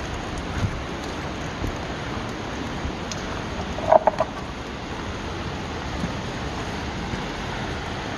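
Steady rush of a waterfall running high after heavy rain. About four seconds in, a brief cluster of three short chirps sounds over it.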